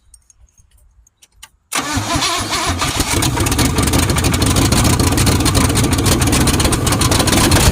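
Car engine with open exhaust manifolds and no exhaust pipes catching suddenly about two seconds in, after its distributor has been turned to set the ignition timing, then running loud and rough with rapid crackling exhaust pulses straight out of the manifolds.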